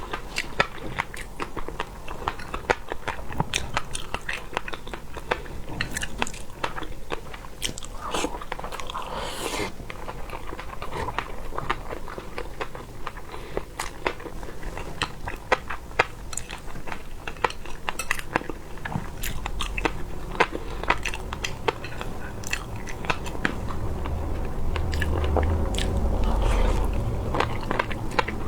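Close-miked eating of seafood: crunchy bites and chewing with many irregular wet clicks and crackles. A low rumble swells near the end.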